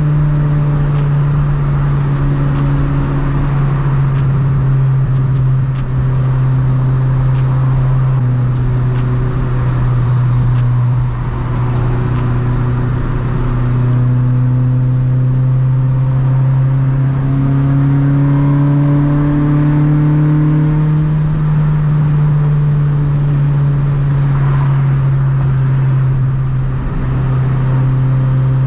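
Honda Civic EG hatchback's B20 four-cylinder engine droning steadily at highway cruise, heard from inside the cabin; its pitch slowly climbs and drops back a few times.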